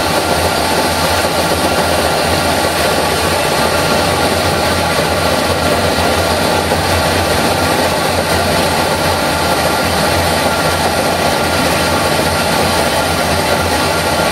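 PET plastic flake washing machine running steadily: a loud, even machine noise with a low hum and several steady tones.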